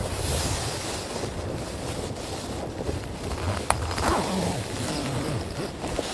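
Blizzard wind gusting and buffeting the microphone with a steady low rumble, and a single sharp click a little past halfway.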